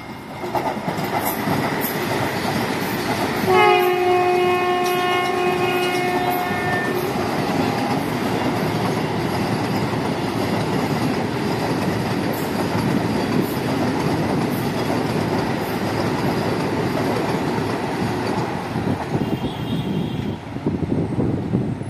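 Vande Bharat Express electric trainset running past at speed, a steady rumble of wheels on rail with faint regular clacks over the joints. About three and a half seconds in it sounds one horn blast lasting about three seconds.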